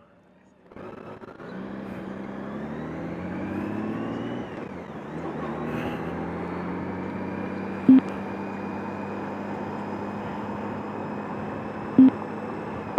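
A motor vehicle's engine starts up suddenly and rises in pitch over the first few seconds, then runs at a steady pitch. Two short, loud tones sound about four seconds apart.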